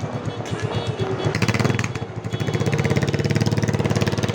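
Motorcycle engine running close by, getting louder about a second in, then holding a steady, rapid, even beat.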